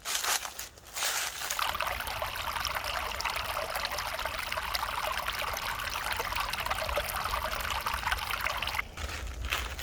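A small stream trickling and babbling steadily. For about the first second, and again near the end, footsteps crunch through dry fallen leaves.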